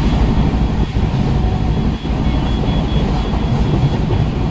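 Express passenger train running along the line: a loud, steady rumble of the coaches on the track.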